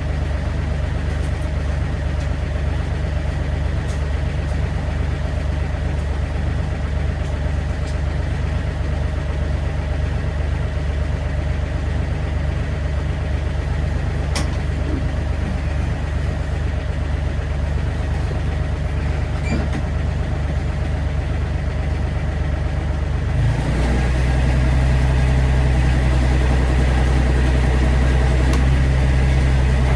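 Excavator's diesel engine running steadily. About 23 seconds in its note shifts and it gets louder.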